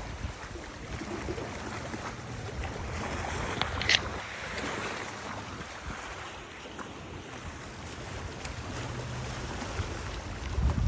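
Wind gusting and rumbling on the microphone over a steady rush of river water, with a brief high chirp about four seconds in.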